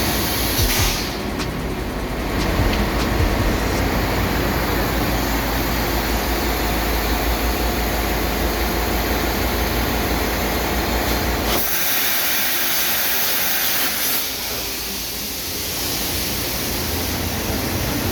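Ship's engine-room noise: the main diesel engine and surrounding machinery running with a steady, loud rumble and a regular low pulse. About twelve seconds in, the rumble drops away and a loud hiss takes over for about two seconds, then the machinery noise returns.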